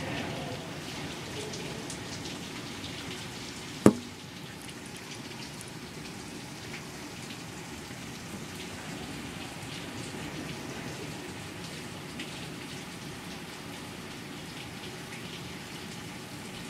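Steady rain falling during a thunderstorm. About four seconds in there is a single sharp knock.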